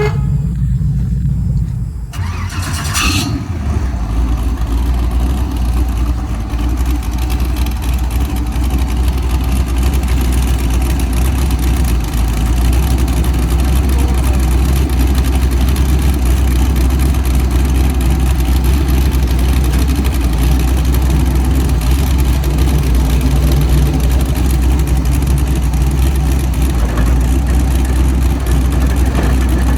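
Turbocharged LS V8 engine of a Triumph Spitfire drag car starting up about two to three seconds in, then idling steadily with a deep rumble.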